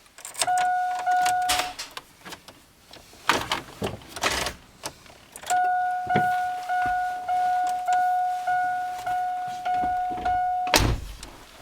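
Electronic warning chime of a GM van dashboard, chiming steadily at about one and a half strokes a second: two chimes, a pause filled with knocking and handling noise, then about nine more, cut off by a loud thump near the end.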